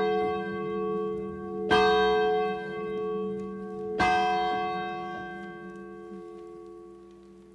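A church bell tolling: struck about every two seconds, each stroke ringing on with a slow decay, the last stroke left to die away.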